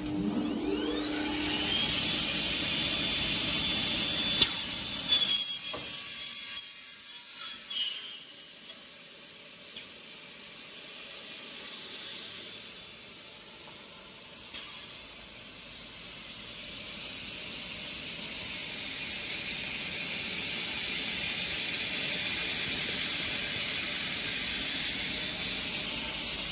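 A high-pitched motor whine that rises in pitch over the first two seconds, then holds steady, dropping away about eight seconds in; a quieter steady hiss follows and slowly grows louder.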